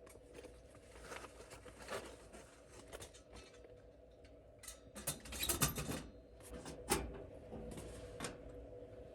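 Faint rustling and light clicks of small objects being handled, with a quick cluster of sharper knocks about five seconds in and another single knock near seven seconds.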